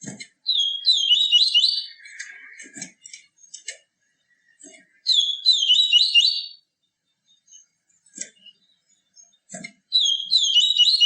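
A papa-capim seedeater singing three short, fast, twittering song phrases a few seconds apart. Faint clicks and low knocks fall between the phrases.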